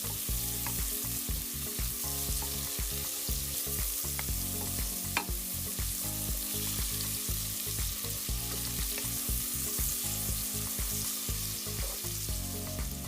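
Onions and bell peppers sizzling steadily in olive oil in a cast iron skillet. A stirring utensil clicks against the pan a few times, most sharply about five seconds in.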